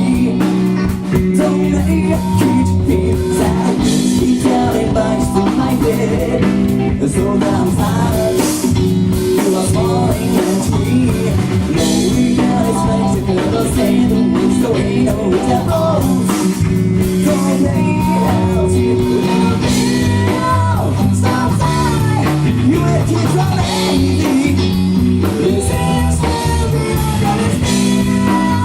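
A rock band playing live: electric guitar, bass and drum kit, with a singer.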